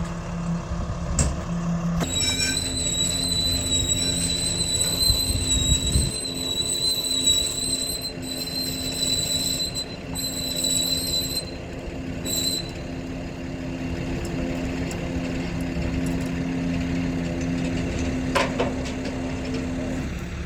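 A truck's engine running steadily, with a high whistling whine that starts about two seconds in, breaks off a few times, and stops about halfway through.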